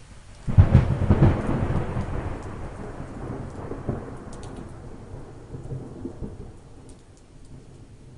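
A thunderclap bursts in about half a second in with a loud crackling rumble, then rolls and slowly fades over the next several seconds, over steady light rain with scattered drops.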